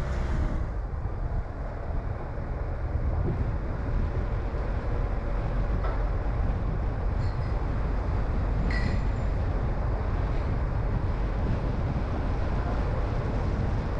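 Steady low rumble of a car driving, tyre and engine noise, with a faint click about nine seconds in.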